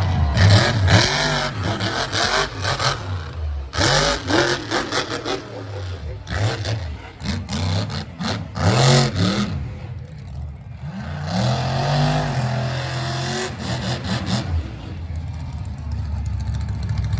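Monster truck's supercharged V8 engine revving hard in repeated bursts, its pitch sweeping up and down, with sharp crackling bangs in between. In the last few seconds it settles to a steadier, lower running sound.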